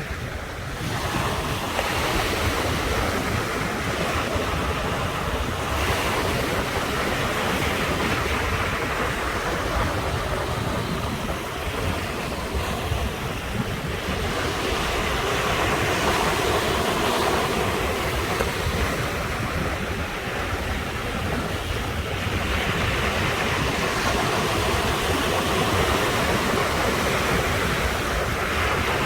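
Ocean surf washing onto the shore in a continuous rush that swells and eases every several seconds, loudest around the middle and again near the end. Wind buffets the microphone with a low rumble underneath.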